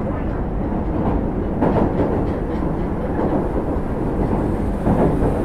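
Osaka Metro 30000 series subway train running: a steady rumble of wheels on rail, with brief louder rattles about 1.7 s and again about 5 s in.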